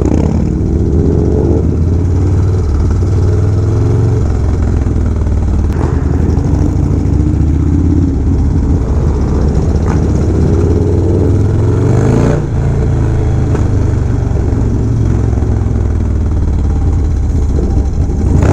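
Harley-Davidson Dyna Low Rider S V-twin motorcycle running under way, rising in pitch as it accelerates near the start and again around two-thirds of the way through, then briefly dropping off.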